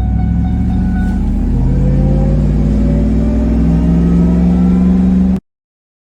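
2004 Ford F-150 SVT Lightning's supercharged 5.4-litre V8 pulling as the truck accelerates, its pitch rising steadily. It cuts off abruptly a little after five seconds in.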